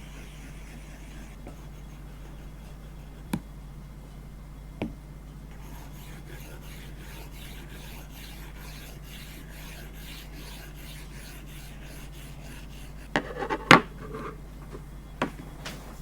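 Stylus nib scratching quickly back and forth across an iPad Air's screen while colouring, with sharp taps of the nib on the glass; the loudest taps come in a cluster near the end. A steady low hum lies underneath.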